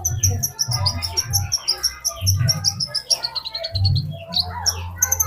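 A songbird singing a fast, continuous run of short high chirps, over a steady low hum.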